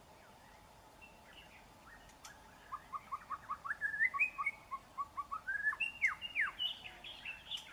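Young white-rumped shama singing. It is quiet for the first couple of seconds, then comes a fast run of short chirps, with a few quick downward-sweeping whistles near the end.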